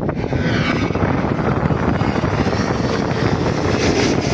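Airliner passing low overhead: a loud, steady rush of engine noise with a falling whine in the first second.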